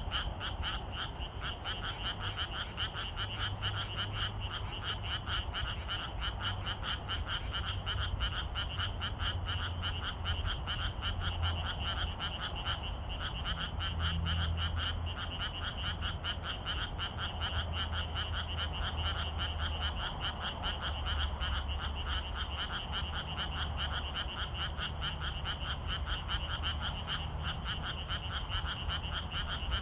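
A dense chorus of many frogs calling without a break, a fast stream of overlapping croaks, with a steady low rumble beneath it.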